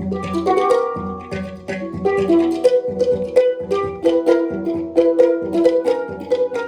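Live instrumental music: quick pitched notes, struck or plucked, ringing over a low sustained tone that drops out and comes back every second or so.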